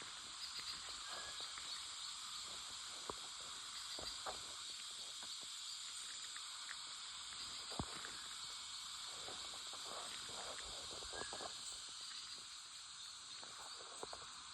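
Forest ambience: a steady high-pitched hiss with scattered faint clicks and a couple of brief high notes, one about a second in and one around eleven seconds in.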